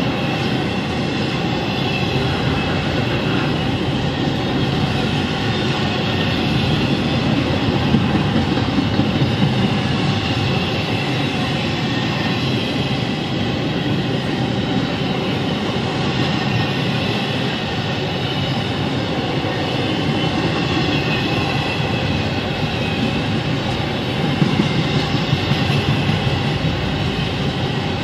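Double-stack intermodal well cars of a freight train rolling past on the rails: a steady rumble and rattle of steel wheels, with louder clatter about eight seconds in and again near the end.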